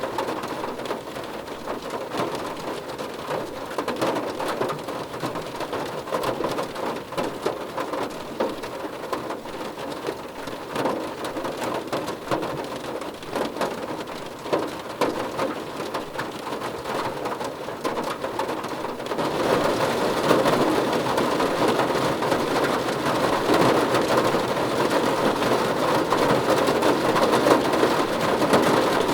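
Rain falling on a car roof: a dense patter of drops that gets louder and heavier about two-thirds of the way through.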